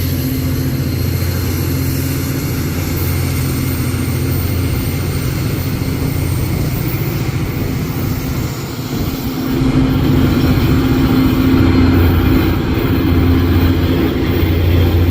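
Diesel locomotive engine running with a steady low drone, growing louder about ten seconds in.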